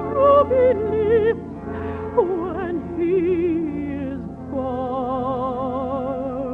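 Operatic solo singing with wide vibrato over orchestral accompaniment, from a 1950s radio broadcast recording with a narrow, old-radio sound. The voice holds long notes, glides down in pitch about three seconds in, then holds a lower note.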